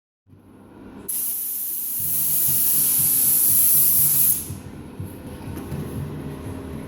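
Spraying hiss that starts abruptly about a second in, runs steadily for about three seconds and cuts off, over a low, steady machine hum.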